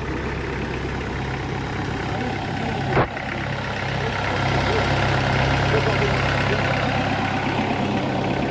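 Hinomoto HM3030 tractor's 1508 cc four-cylinder engine running steadily, with a single sharp knock about three seconds in; it gets louder from about four and a half seconds on.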